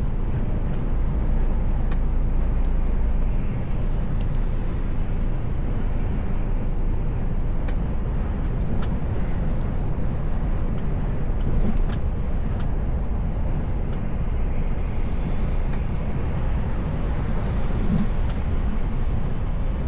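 Mercedes Actros L truck cruising, heard from the cab: a steady low engine and road drone with tyre noise, with a few faint clicks and a brief hiss near the end.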